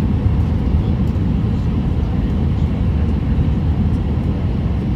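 Steady low rumble of airliner cabin noise inside an Airbus A319: engine and airflow noise heard from a passenger seat.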